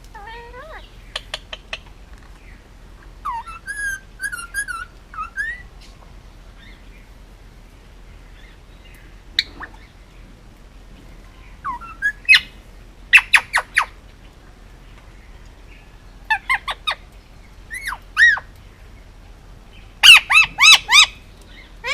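Male Indian ringneck parakeet calling in scattered short bursts of squawks, chirps and clicky notes, ending in a run of loud shrill squawks near the end.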